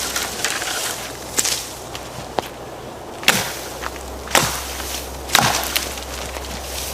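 Small forest axe chopping branches off a fallen tree: a series of sharp single strikes about a second apart, the later ones loudest.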